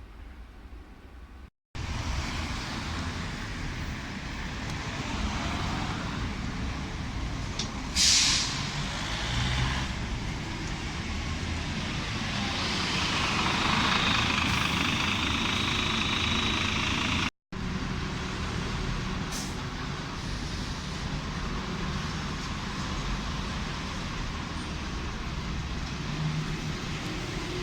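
Paris Métro train in a station, running with a steady rumble. A sharp burst of air hissing comes about eight seconds in, and a high whine builds in the middle. The sound breaks off abruptly twice.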